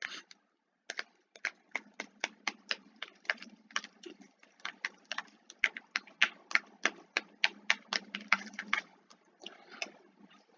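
Typing on a computer keyboard: irregular key clicks, about three a second, with short pauses near the start and near the end.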